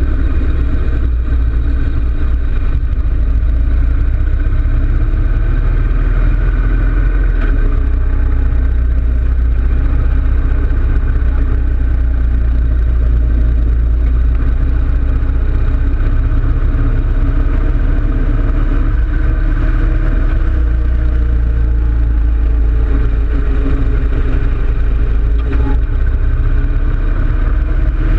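2013 Harley-Davidson Road King Classic's Twin Cam 103 V-twin engine running under way, a steady low rumble whose pitch drifts slightly up and down with the throttle.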